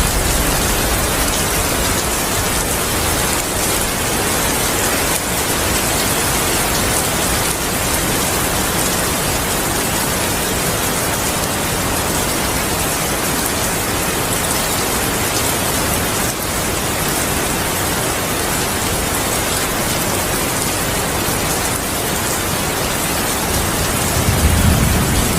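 Heavy rain falling steadily, a dense even hiss of drops. A low thunder rumble begins to build near the end.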